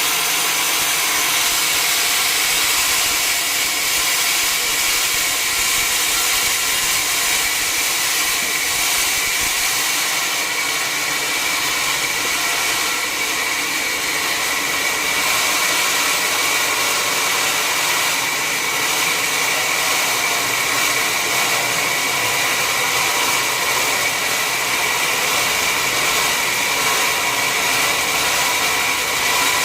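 Sawmill saw running steadily: a high, even whine over a loud hiss that never breaks.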